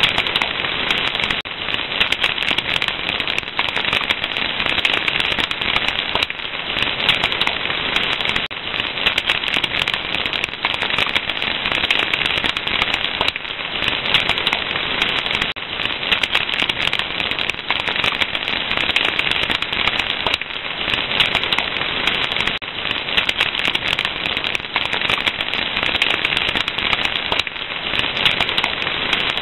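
Wood fire crackling steadily, with dense small pops and snaps over a constant hiss.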